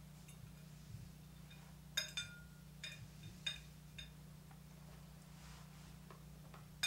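Cutlery clinking lightly against a plate: a handful of small clinks about two to four seconds in and another near the end, over a low steady hum.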